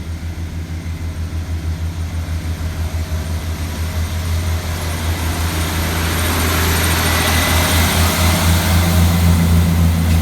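Class 158 diesel multiple unit's underfloor diesel engines running with a deep, throbbing low note that grows steadily louder, a hiss building alongside it.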